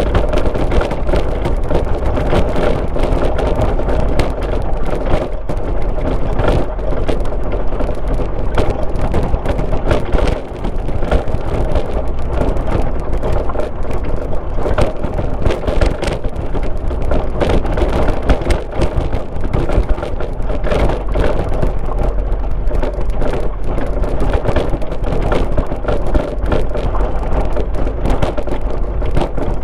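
Car driving along a road: steady engine and tyre-on-road noise, a constant low rumble with dense crackling over it.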